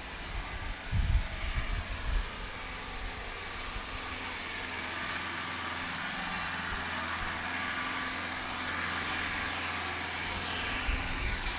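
Mahindra tractor's diesel engine running steadily with a low hum. Wind buffets the microphone in the first couple of seconds.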